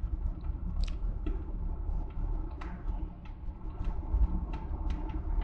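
Wood fire in a fireplace firebox crackling with irregular sharp pops, about one or two a second, over a low steady rumble. Freshly loaded logs are burning hard with the damper wide open to drive off their moisture.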